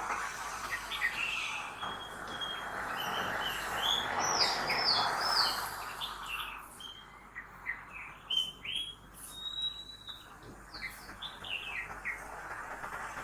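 Several birds chirping and singing in quick, short notes. Steady traffic noise, such as passing cars, is louder in the first half and dies down about six seconds in.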